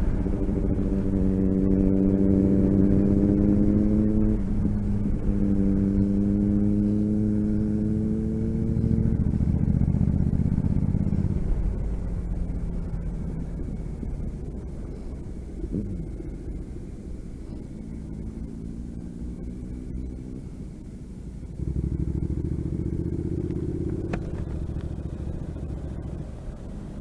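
Motorcycle engine pulling up through the gears, its note rising a little then dropping with each shift, twice in the first ten seconds. It then runs quieter for a while and picks up again near the end, with steady wind and road rumble underneath.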